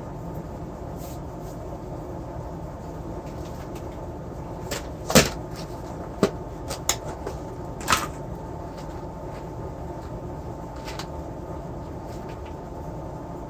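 A handful of short, sharp clicks and knocks from handling on the workbench, the loudest about five seconds in and the last near eight seconds, over a steady hum with a faint high tone.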